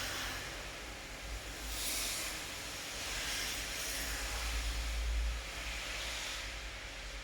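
Steady rain hiss, with a deep low rumble that swells and fades a couple of times.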